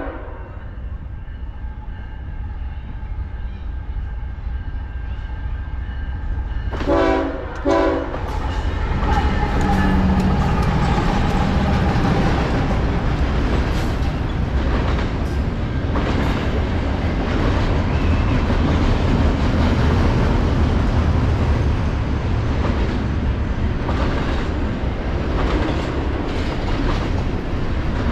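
Diesel freight locomotive's air horn gives two short blasts about seven seconds in, then the train passes close by with a steady loud rumble and the clickety-clack of wheels on rail joints.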